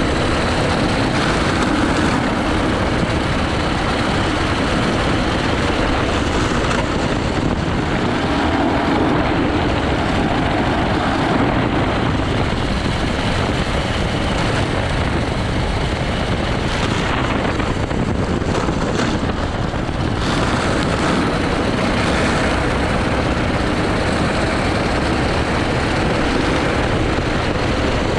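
80cc go-kart engine running hard at racing speed, its note rising and falling with a dense rushing noise over it.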